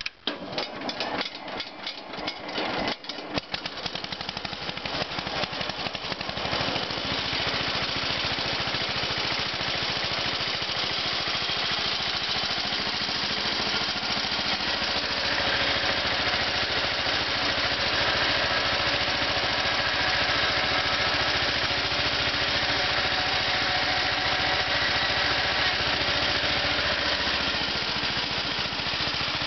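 Cold start of a 1971 Sears SS14 garden tractor's 14 hp Briggs & Stratton engine: a few seconds of uneven, stop-start firing, then it catches and settles into a steady run.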